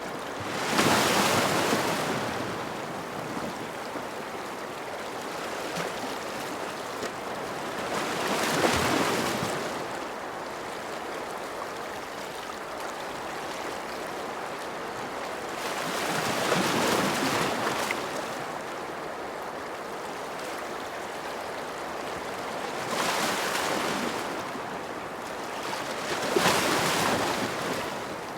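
Ocean surf breaking on a shore: five waves surge and fade a few seconds apart over a steady wash of water.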